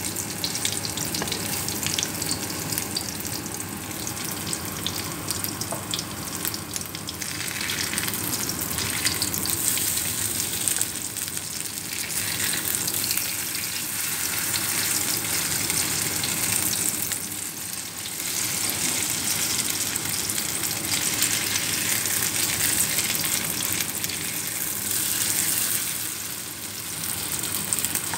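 Pork patties sizzling steadily as they shallow-fry in hot oil in a wok.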